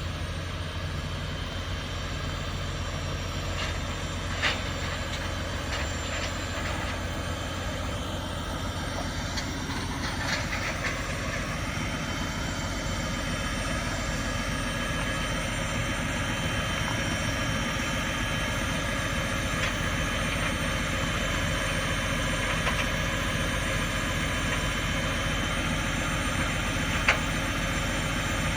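Car-hauler truck's engine running steadily at idle, with a few sharp metallic clanks.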